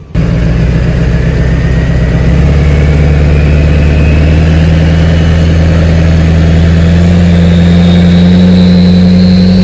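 Truck engine running hard under load after a sudden start: a steady, dense drone that builds slightly in loudness, with a thin whine climbing slowly in pitch throughout.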